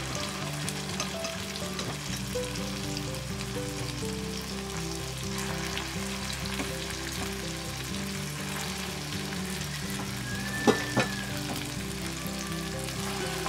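Balls of instant rice porridge and egg sizzling and crackling steadily as they fry in hot oil in a non-stick pan, with soft background music. Two sharp clicks come close together about three quarters of the way through.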